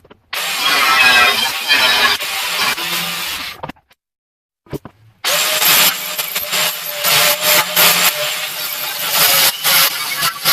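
Power grinder working against the metal of the air tank, grinding off its paint, in two long passes separated by a second and a half of quiet.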